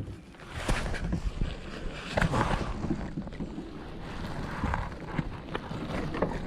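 Wind rumbling on the microphone, with irregular knocks, clicks and water splashes from handling in a kayak, as a fish is brought in.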